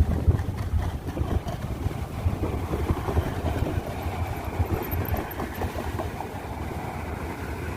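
Light rail train running by with a steady low rumble.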